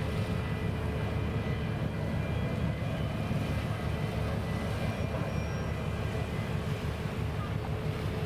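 Steady low engine rumble with a faint constant hum above it, unchanging throughout.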